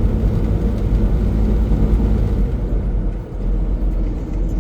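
Semi-truck's engine and road noise heard from inside the cab at highway cruising speed: a steady low rumble that dips briefly about three seconds in.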